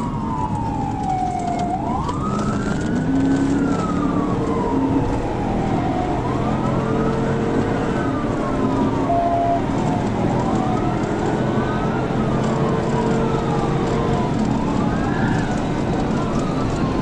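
Police car siren wailing, its pitch rising and then sliding down about every two and a half seconds, over the pursuing cruiser's engine and road noise.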